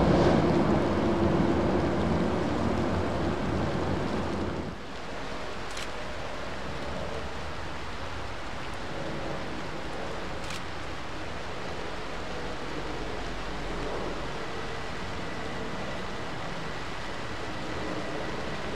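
A passing train fading away over the first few seconds, its sound falling off sharply about five seconds in. After that there is only a steady, even hiss of background noise.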